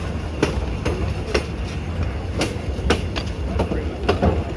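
Passenger train riding along the track: a steady low rumble with sharp clacks of the wheels over rail joints, several in a row at uneven spacing.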